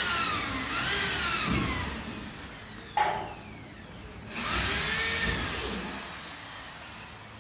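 An electric power tool motor revving up and winding down several times, its pitch rising and then falling, with a long fall as it coasts to a stop. There is a sharp knock about three seconds in.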